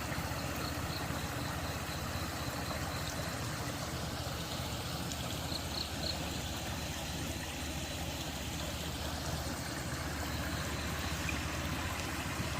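Steady rushing of flowing water, with a few faint, short, high bird chirps.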